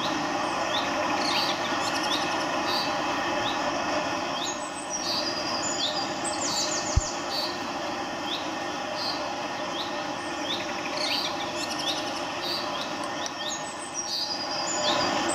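Small birds chirping in quick, repeated short notes over a steady background hum, with a single dull thud about seven seconds in.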